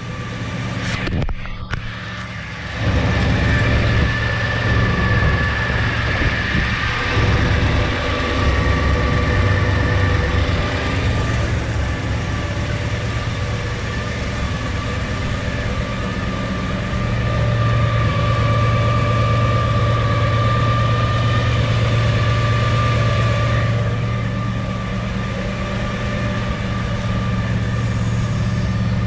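V-8 engine of a 1964 Chevrolet El Camino idling steadily through its dual exhaust, with a deep, even hum. It gets louder about three seconds in.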